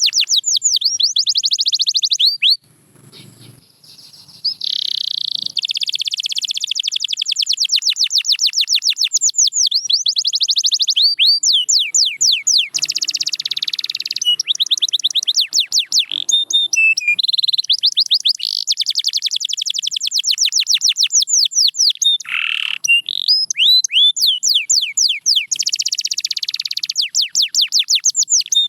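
Domestic canary singing a long song of fast trills: runs of rapidly repeated down-slurred notes that change speed from one run to the next, with a short break about three seconds in.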